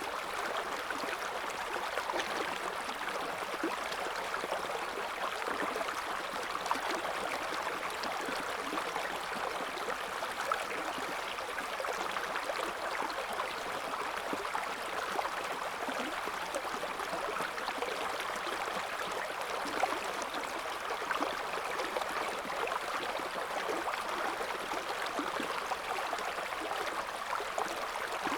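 River water flowing over stones: a steady rushing and babbling, strongest in the mid range, with small splashes and gurgles flecking it throughout.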